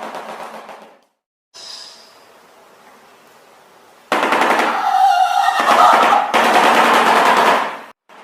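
Shoebill clattering its bill in a rapid rattle. There is a short burst at the start, then after a quieter stretch a long, loud burst of about four seconds.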